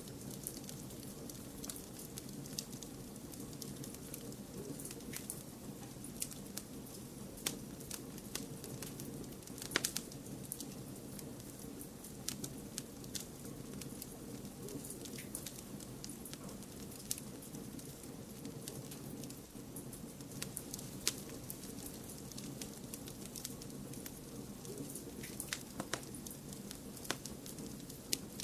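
Wood fire crackling: irregular sharp pops and snaps, one louder pop about ten seconds in, over a steady low rushing noise bed.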